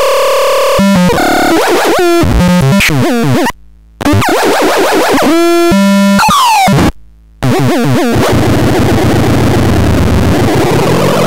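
Megastron Micro playing electronic synthesized sound effects: beeping tones that jump and sweep up and down in pitch, stopping briefly twice, then turning into a loud noisy hiss with a faint gliding tone in it.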